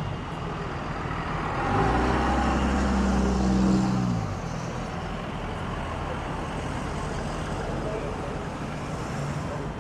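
A motor vehicle's engine goes by close, louder for about two seconds and dropping in pitch as it fades, over a steady low engine and traffic rumble.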